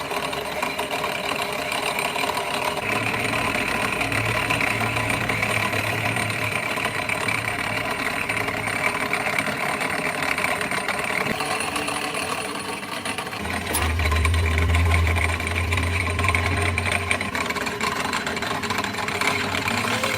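Workshop machinery running steadily with a dense, even mechanical noise; a deeper hum grows stronger about two-thirds of the way in.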